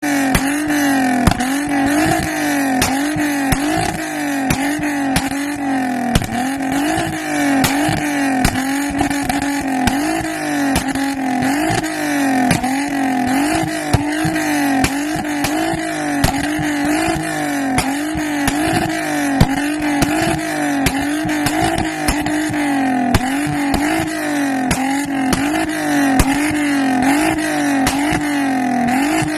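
Volkswagen Golf Mk5 R32's 3.2-litre VR6 engine revved over and over, its pitch rising and falling about once a second. Sharp pops and bangs come from the exhaust, the backfires that throw flames.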